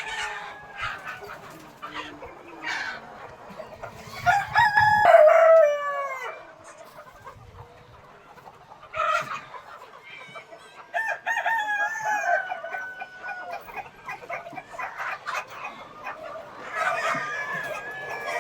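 Peruvidai country chickens in a flock: roosters crowing, the loudest crow about four seconds in and another about eleven seconds in, each ending with a falling note, over hens clucking throughout.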